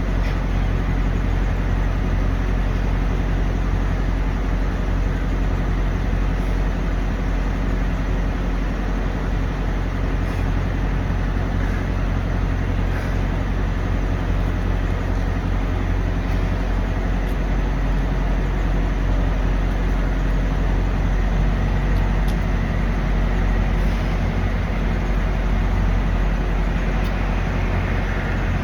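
Semi truck's diesel engine idling: a steady low hum that does not change.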